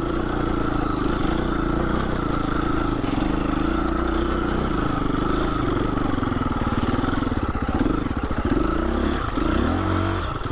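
Husqvarna 350 FE's single-cylinder four-stroke engine pulling steadily under load on a climb, its revs dipping and rising again near the end.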